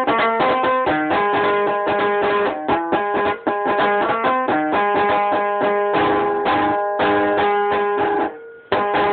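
Rababa, a plucked string lyre, played in quick repeated plucked notes with a short break about eight and a half seconds in.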